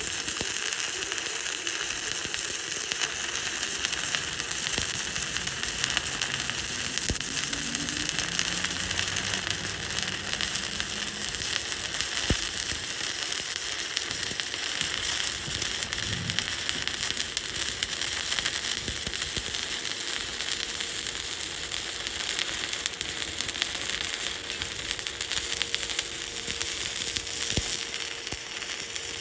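Stick (arc) welding arc on a vertical 3G root pass, crackling and sizzling steadily. It starts abruptly as the arc is struck.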